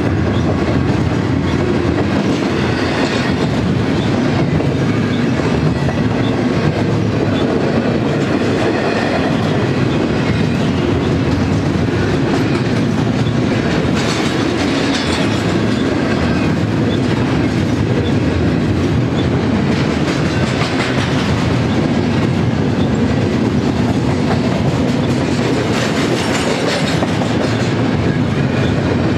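Double-stack intermodal freight train's well cars rolling past close by, their wheels rumbling steadily on the rails. Brighter, higher-pitched wheel-on-rail noise swells up for a moment several times.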